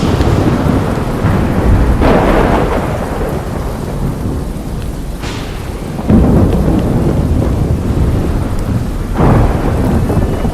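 Steady heavy rain with rumbling thunder, which swells about 2 seconds in, again around 6 seconds and once more just after 9 seconds.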